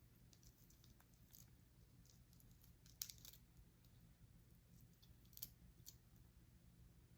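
Faint eating sounds of shrimp and snow crab legs: soft crunches and a few short clicks, the sharpest about three seconds in and another about five and a half seconds in.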